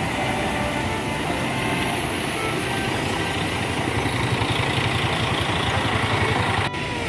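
Tour bus engine idling with a low rumble that grows louder and pulses over the last few seconds, broken by a brief cut near the end.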